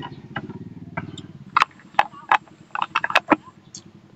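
Close-up eating sounds: chewing with sharp, irregular mouth clicks and lip smacks, most of them in the second half. A low droning hum fades out over the first second and a half.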